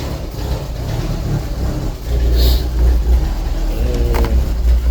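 1977 Ford Corcel Belina's four-cylinder engine idling while it warms up, a steady low rumble that gets louder about two seconds in. A light click comes near the end.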